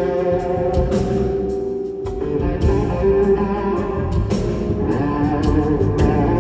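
Live band playing a slow jazz-blues instrumental, with slide electric guitar carrying the melody in long held, gliding notes over bass and drums.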